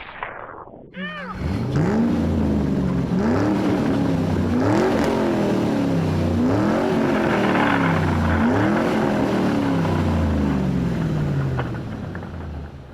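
Monster truck engine revving up and falling back about five times in a row, then dying away near the end.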